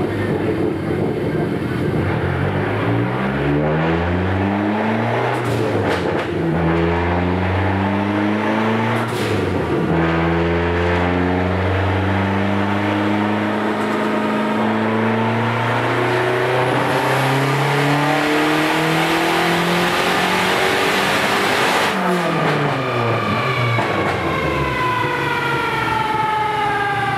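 Turbocharged Dodge Neon SRT-4 engine making a dyno run: it revs up through the gears, its pitch climbing in steps. About 22 seconds in it is cut back, and the engine and drivetrain wind down with a falling whine.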